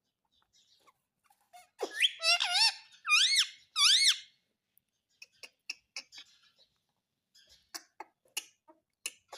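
Pet rose-ringed parakeet making a run of squeaky calls that sweep up and down, starting about two seconds in and lasting about two and a half seconds, followed by scattered faint clicks.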